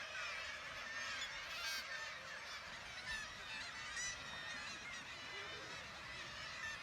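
Dense chorus of nesting gulls calling over one another at a breeding seabird colony: many overlapping harsh calls, with no single bird standing out.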